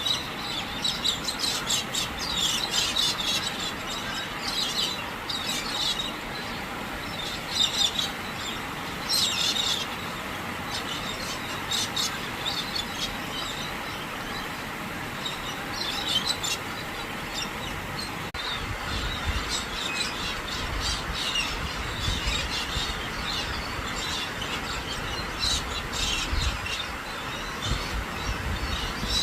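Birds calling: short, high chirps and screeches, repeated many times over a steady hiss. A low rumble joins about two-thirds of the way through.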